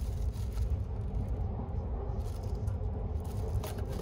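Steady low rumble of the Sunrise Izumo sleeper train running, heard from inside the carriage, with a faint rustle of a plastic-wrapped cup being handled.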